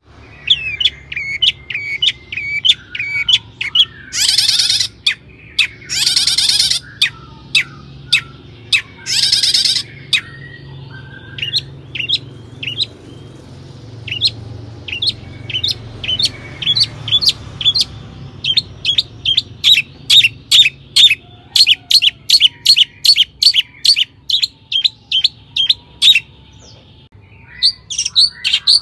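Long-tailed shrike singing: a run of short, sharp, high notes, broken in the first ten seconds by three harsh, rasping calls, with a fast train of clipped notes, several a second, in the latter half.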